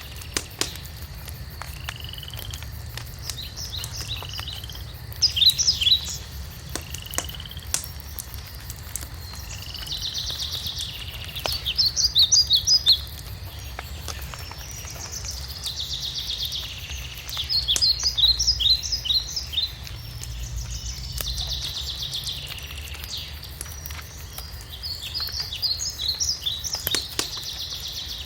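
A songbird singing short phrases about every six or seven seconds, each ending in a quick run of high notes. Behind it a wood fire crackles with scattered pops over a low steady rumble.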